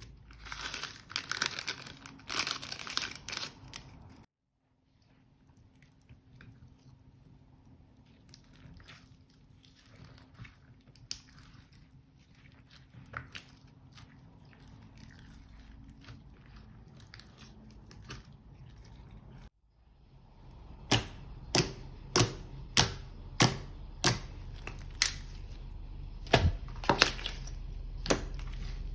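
Slime being worked by hand: dense crinkly crackling for the first few seconds, then, after a cut, faint scattered clicks for a long stretch. After another cut comes a run of sharp, loud pops, about one or two a second, as the slime is pressed and poked.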